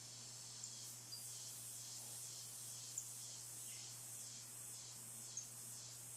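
Faint dawn chorus: a high trill pulsing about two or three times a second, with a few short, sharp high chirps of birds scattered through it.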